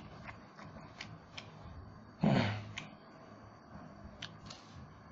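Close-miked eating sounds of a person chewing roast duck: scattered wet mouth clicks and smacks. About two seconds in comes one short, louder breathy vocal sound with a low falling pitch, like a grunt or 'mm'.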